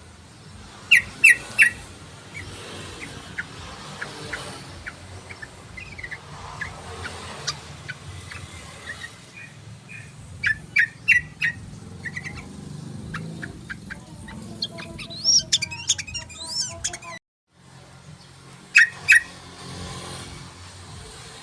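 Yellow-vented bulbul calling: tight clusters of sharp, quick chirps about a second in, again around ten to eleven seconds and near the end, with a bubbling run of rising and falling notes in between. The sound cuts out suddenly for a moment a few seconds before the end.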